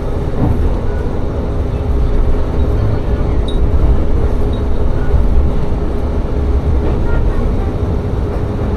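Diesel railcar running along the line: a steady low rumble of the wheels and running gear with an even engine drone over it.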